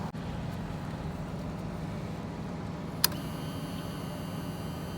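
American Lifan Lycan V16 250cc V-twin motorcycle engine idling steadily, with one sharp click about three seconds in.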